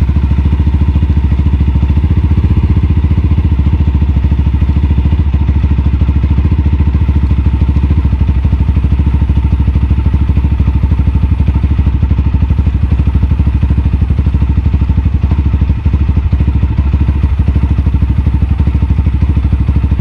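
Mahindra Mojo's single-cylinder engine idling steadily in first gear, turning the rear wheel and chain on a paddock stand.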